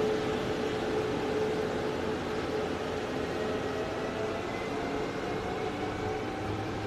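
Electric train running at a station platform: a steady rumble with faint whining tones that rise slowly in pitch.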